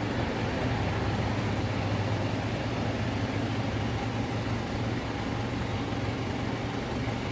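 The four-cylinder engine of a 1998 Toyota Corolla AE111 idling steadily with a constant low hum while its alternator is tested: the alternator is not charging the battery.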